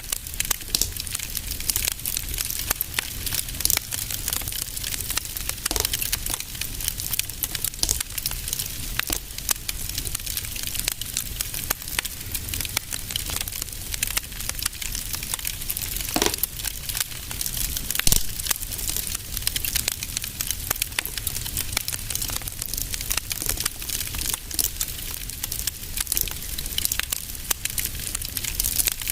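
Wood fire in a fireplace crackling steadily, with dense small pops and snaps over a low rumble. A louder pop comes about eighteen seconds in.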